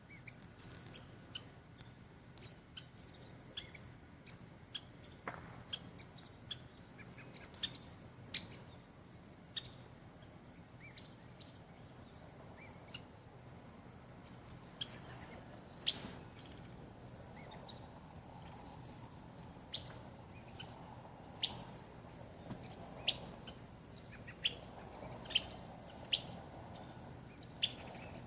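Birds giving short, sharp, high chirps every second or so, irregularly spaced, over a faint steady outdoor background.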